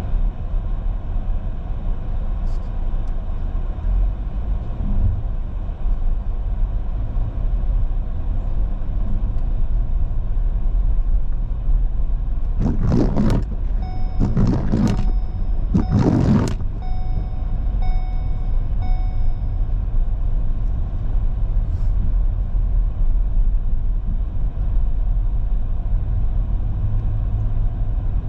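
Steady low rumble of a car driving. About halfway through come three loud, rushing bursts of noise, and with them a run of short, evenly pitched beeps lasting a few seconds.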